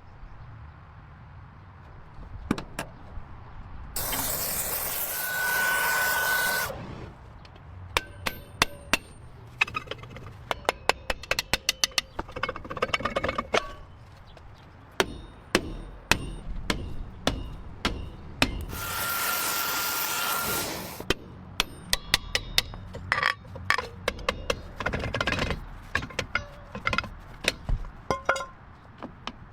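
Workshop tool sounds: a power tool runs in two stretches of about two and a half seconds each, with a steady high whine over its hiss. Many sharp taps and knocks fall between them.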